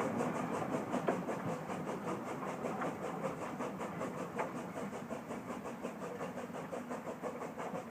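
Narrow gauge steam train hauled by an Orenstein & Koppel 0-4-0T tank engine working up a gradient: a rapid, even beat of exhaust and rattling, slowly getting quieter.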